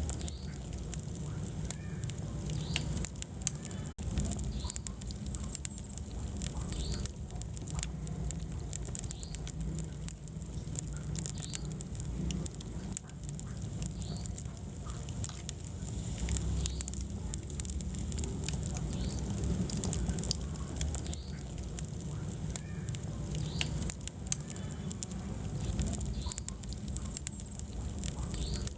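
Wood fire burning in a fireplace: a low steady rumble of flames with frequent small crackles and pops throughout.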